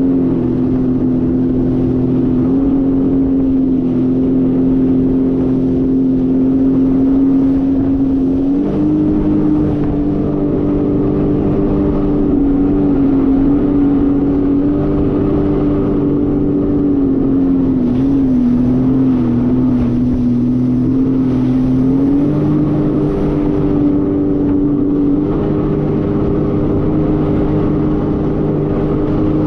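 Jet ski engine running steadily at speed, its pitch stepping up about a third of the way in, dipping briefly past the middle, then rising and falling again near the end as the throttle changes.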